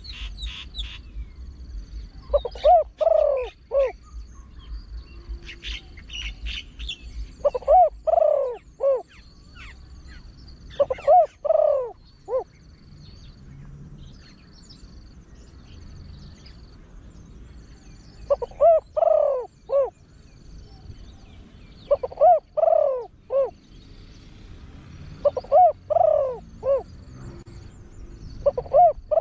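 A big-voiced trained spotted dove cooing: short phrases of about four low notes, repeated about seven times a few seconds apart. Small high chirps and a faint repeated high buzz sound between the phrases.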